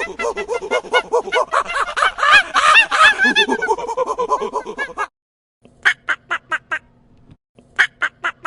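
A flock of birds calling all at once, many overlapping calls, for about five seconds. After a short break come two bursts of quick repeated calls, about five a second, over a faint steady hum.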